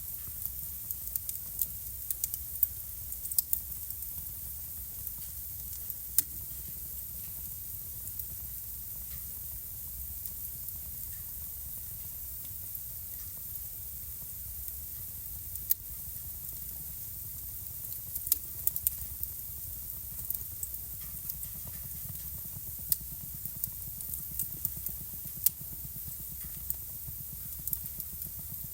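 Wood fire burning in a home fireplace: a steady soft hiss with irregular sharp crackles and pops from the burning logs, coming in small clusters.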